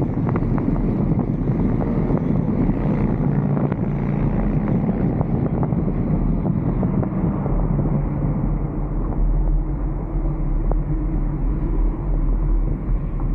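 Wind rushing over a vehicle roof-mounted camera, with a steady low drone of the vehicle underneath. The higher hiss of the wind dies down about halfway through.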